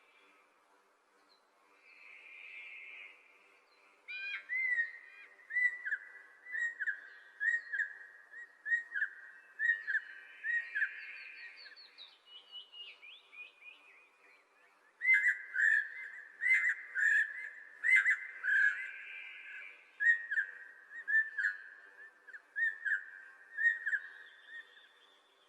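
A songbird singing two long phrases of rapid whistled notes, the first starting about four seconds in and the second at about fifteen seconds, with a short falling run of higher notes between them. Soft hissy sounds come and go behind the song.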